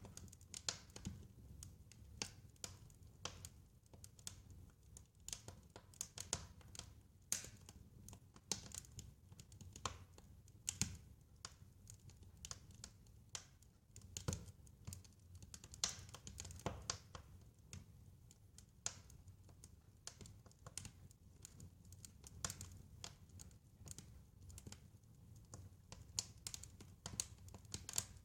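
Wood fire crackling: irregular sharp pops and clicks, a few louder snaps among many small ones, over a steady low rumble of the flames.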